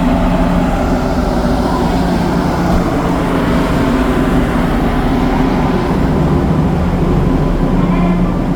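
Ferry's engines running: a steady, loud low drone with a constant hum.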